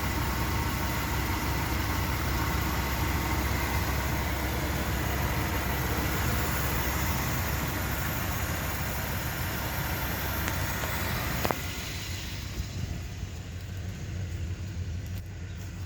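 1976 Buick Century's 350 two-barrel V8 idling steadily after a drive, which the owner calls whisper quiet. A sharp click about three quarters of the way through, after which the sound turns duller and a little quieter.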